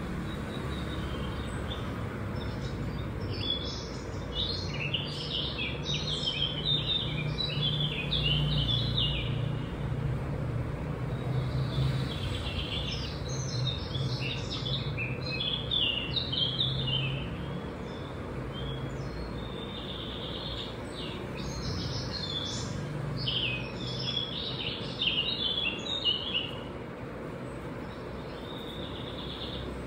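A bird singing in three bouts of rapid chirps, each lasting several seconds, over a steady low hum.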